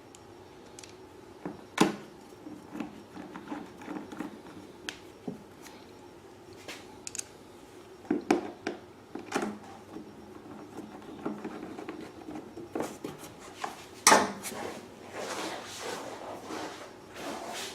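Hand work on a generator's plastic side panel as it is fitted back on and its three screws are put back in: scattered clicks, taps and knocks of plastic and metal. The two loudest knocks come about two seconds in and about fourteen seconds in, the second followed by a few seconds of rustling handling.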